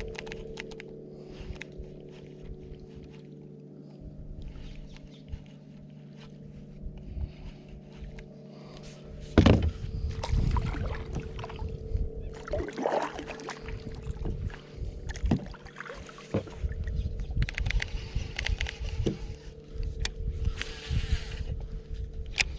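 Kayak being paddled: paddle strokes splashing in the water and knocking on the hull. They start suddenly about nine seconds in, over a steady low hum.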